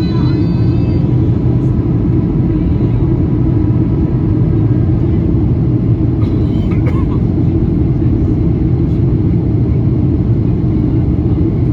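Steady in-flight cabin noise of a Boeing 737-800 heard from a window seat: the CFM56 jet engines and the rush of air over the fuselage make an even, low rumble, with a faint steady whine above it.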